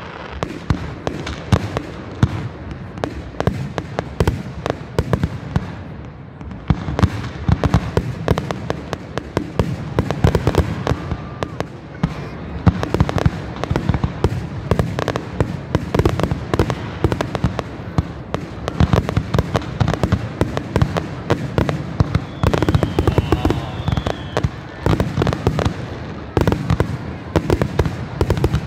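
Aerial fireworks bursting in a dense barrage: many bangs and crackles a second, thinning briefly about five seconds in, then packed close again.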